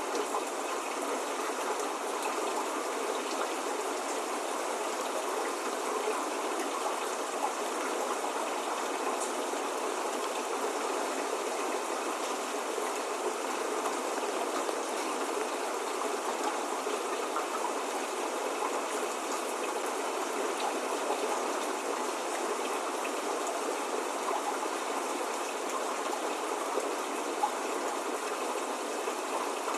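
Steady rain falling: an even, continuous hiss of many drops, with a couple of single drops ticking louder now and then.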